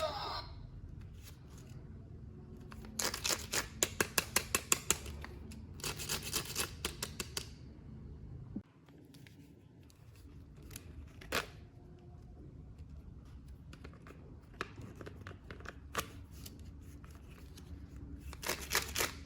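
Toy packaging being opened by hand: two runs of quick snipping and tearing clicks, then scattered single clicks and light rustling.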